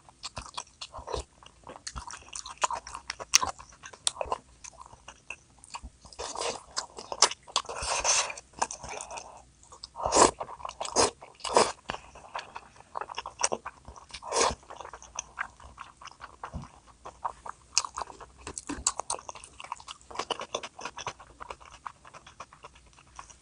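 A person eating close to the microphone: biting and chewing, with many small sharp mouth clicks and a few louder bites a little past the middle.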